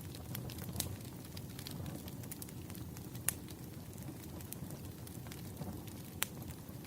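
Wood fire crackling: a steady low rumble with scattered sharp pops, a few of them louder, about a second in, past three seconds and near the end.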